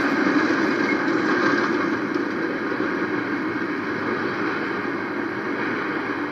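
Freight train cars rolling through a street grade crossing: a steady rumble and rattle of wheels on rail, easing off slightly toward the end.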